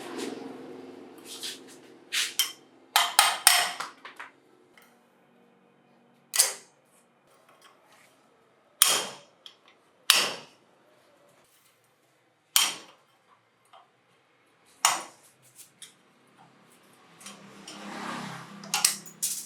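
Hammer strikes on metal parts, sharp single blows spaced a second or more apart, with a quick run of three or four blows about three seconds in. A fainter rushing hum swells near the end.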